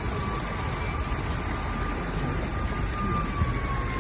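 A vehicle running, with a steady rushing noise and a thin whine that slides down in pitch over the last second.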